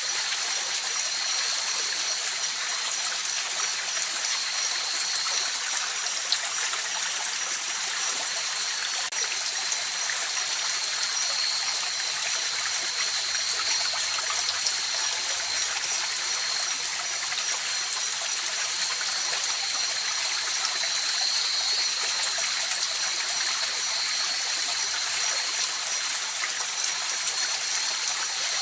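River water flowing and trickling in a steady, unbroken rush, with a thin high-pitched tone held steadily above it.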